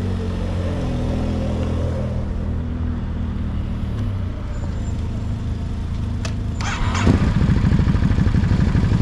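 Motorcycle engines idling with a steady hum. About seven seconds in, an engine is revved up and then runs louder with a fast, even pulsing as the bikes pull away.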